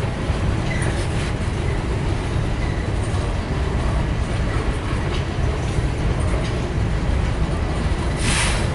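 CSX empty grain train rolling slowly, a steady low rumble of freight cars moving on the track. A short hiss rises briefly near the end.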